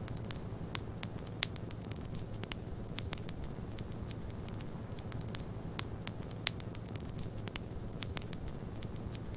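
Wood fire crackling with frequent sharp pops, two of them louder about a second and a half and six and a half seconds in, over a steady low rumble.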